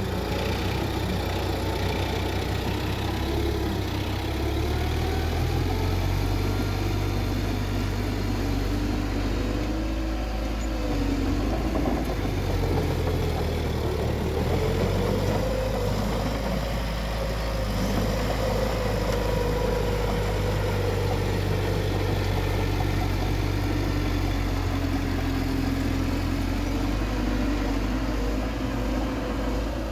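Bulldozer's heavy diesel engine running steadily, its pitch slowly rising and falling as the load changes.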